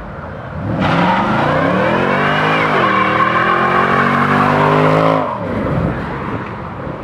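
A car doing a burnout: the engine revs up and holds at high revs while the tyres spin and screech for about four and a half seconds, then the revs drop away.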